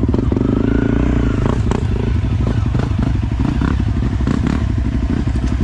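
Enduro dirt bike engine idling close by, with a short rev that rises and falls about half a second in, and a few clacks near the middle.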